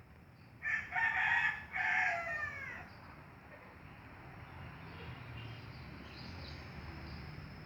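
A rooster crowing once, about two seconds long, with a brief break in the middle and a falling end. A faint low hum follows.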